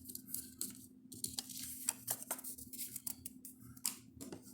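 Short, irregular scrapes and paper rustles from lottery scratch-off tickets being scratched and handled, over a faint steady hum.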